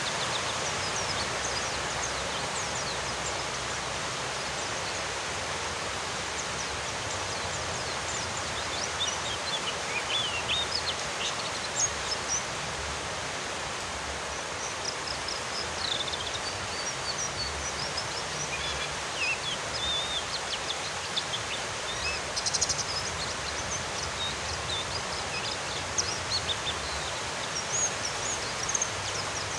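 Steady rain hiss with a small white-eye (pleci) twittering in short, high chirps, scattered through the middle and later part. This soft twittering, which keepers call ngeriwik, is taken as a sign that the bird is relaxed.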